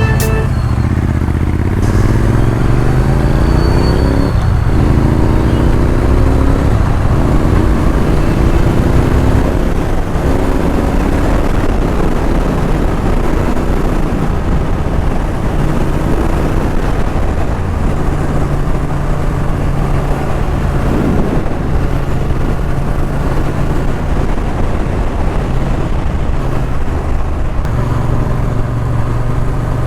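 Triumph Street Twin's parallel-twin engine pulling under way, its pitch climbing and dropping at each gear change several times in the first ten seconds, then running at a fairly steady cruise.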